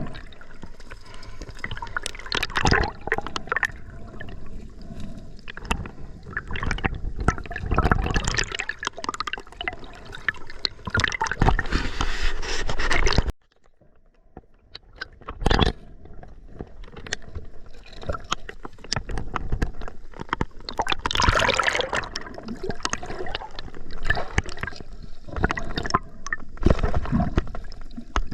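River water sloshing and gurgling close to the microphone, with many short knocks and scrapes. About halfway through it drops away suddenly to a faint hush, then builds back up.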